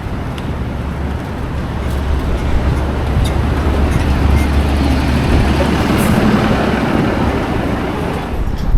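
City street traffic heard from a moving bicycle: a steady wash of car, bus and truck engines and tyres, with low wind rumble on the microphone. The traffic noise swells for a couple of seconds past the middle.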